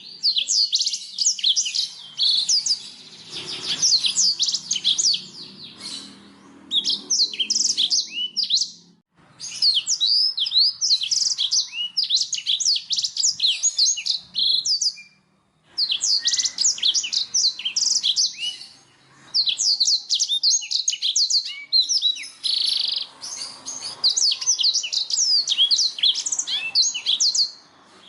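Blackthroat (black-throated canary) singing: long, fast, twittering phrases of high, quick slurred notes, broken by a couple of short pauses.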